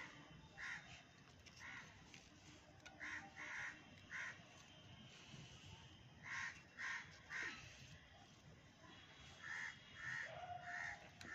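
Short bird calls repeated about a dozen times, singly and in quick runs of two to four.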